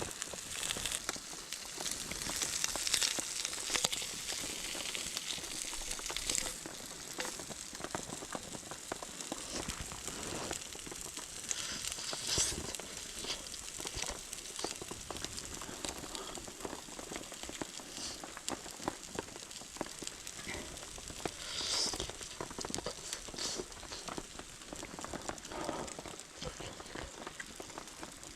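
Bacon sizzling and crackling as it cooks over a campfire: a steady hiss full of small pops, swelling a little a few times.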